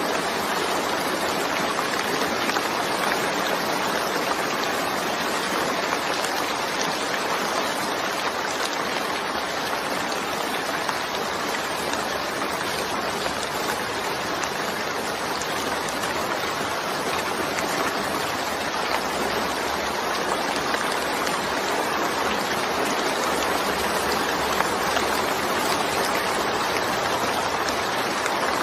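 Steady rain falling, a continuous even hiss with no break or change.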